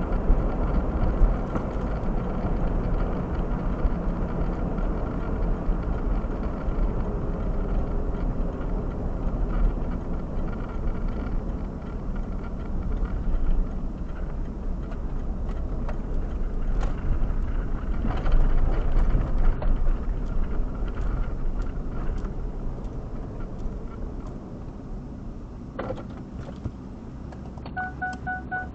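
A car running, heard from inside as a steady low rumble that eases off somewhat late on. Near the end a quick series of short electronic beeps begins.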